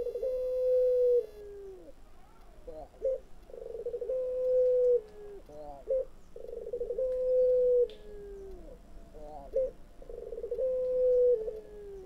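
Caged puter (collared dove) cooing four times, about every three and a half seconds. Each coo opens with a rough, rolling stutter, holds one long note and slides down at the end, with a short sharp note between coos. This is the call likened to a kuntilanak's wail.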